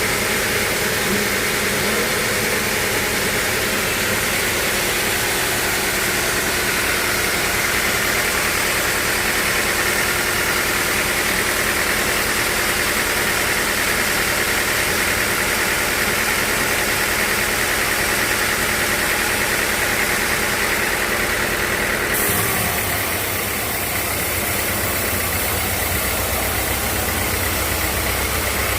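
Sawmill machinery running steadily, a loud even mechanical noise. About 22 seconds in, the sound changes abruptly: the top end brightens and a low hum grows stronger.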